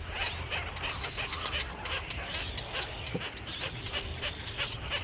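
Many small birds chirping and twittering at once, short rapid calls overlapping continuously, over a steady low hum.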